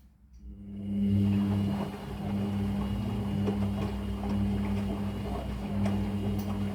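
Whirlpool FL 5065 front-loading washing machine starting up about half a second in and running on its softener rinse with a steady hum.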